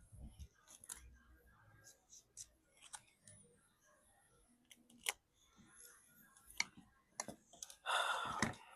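Small hand tools clicking and tapping on a smartphone's internal parts during a screen repair: scattered light clicks, two sharper clicks around the middle, and a short, louder rustling scrape near the end.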